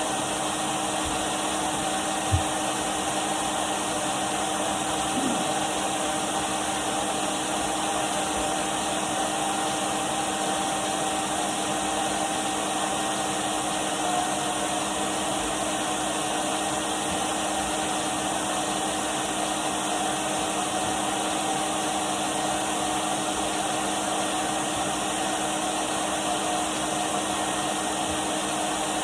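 Henry cylinder vacuum cleaner running steadily: a constant whine of the motor over the rush of air. A single brief knock about two seconds in.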